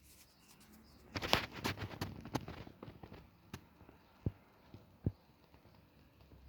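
Handling noise of a 1:18 diecast model car: a quick cluster of small clicks and rattles, then three or four single clicks spaced about a second apart.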